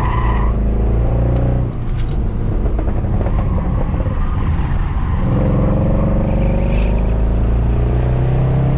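Mercedes C63 AMG's 6.2-litre V8, with its secondary cats and resonators deleted, running hard under track driving. Its note drops off briefly about two seconds in. From about five seconds it climbs steadily in pitch as the car accelerates.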